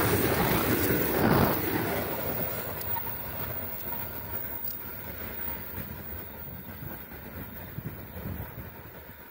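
Freight train of open gondola wagons rolling past on the rails. The last wagons go by in the first second or so, then the wheel noise fades steadily as the train moves away.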